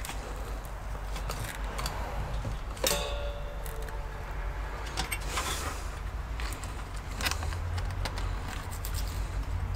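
Scattered clicks and taps of hands and tools working on a computer's metal chassis, with one louder metallic clink that rings briefly about three seconds in, over a low steady hum.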